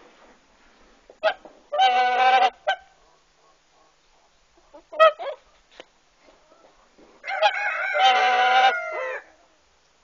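Birds calling: two long drawn-out calls, one about two seconds in and a longer one near the end that slides down in pitch as it finishes, with a few short calls in between.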